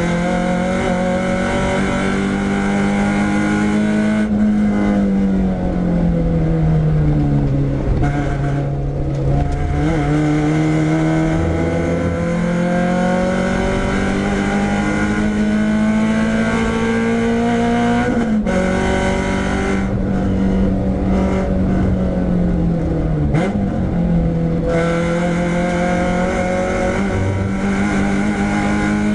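Renault Clio 172's 2.0-litre four-cylinder engine heard from inside the stripped-out cabin, being driven hard on track: the revs fall twice as the car slows and climb steadily again in between.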